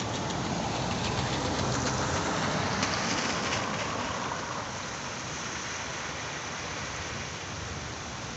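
Heavy rain pouring steadily, swelling louder for the first few seconds and then easing back to a steady downpour.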